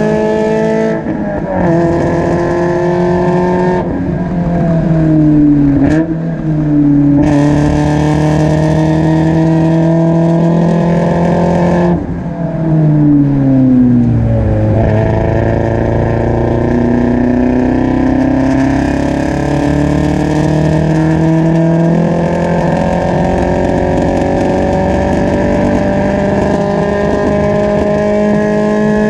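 Spec Miata's four-cylinder engine and exhaust at race pace, heard close to the tailpipe. Its pitch drops sharply several times in the first half as the car brakes and downshifts, then climbs slowly and steadily under full throttle for the second half. The owner reports the engine still misfiring and way down on power.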